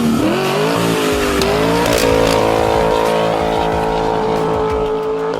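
Chevrolet Colorado V6 running through a custom split dual performance exhaust, revving up over about two seconds and then holding a steady high pitch.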